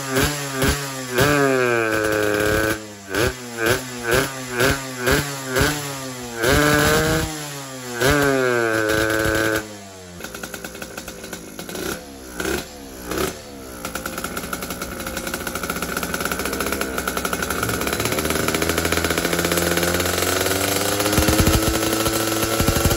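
Yamaha RX-King two-stroke motorcycle engine on a PWK 33 carburettor, revved in quick repeated throttle blips that fall back each time, some held high for a second or so. About ten seconds in it drops to a low run with a few short blips, then settles into a steady drone whose pitch slowly rises.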